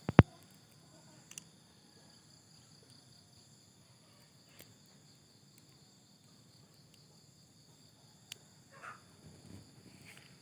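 Steady high-pitched chirring of insects, like crickets. A sharp double knock comes right at the start, with a few faint clicks and a short rustle later.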